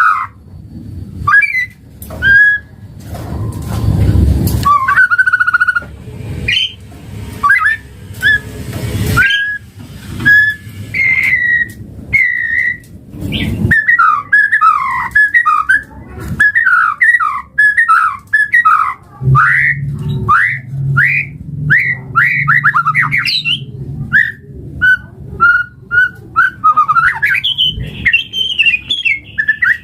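White-rumped shama (murai batu) singing: a long, varied run of clear whistled notes and quick rising and falling slurs, packed into fast chattering phrases in the middle, with a few harsh noisy bursts mixed in.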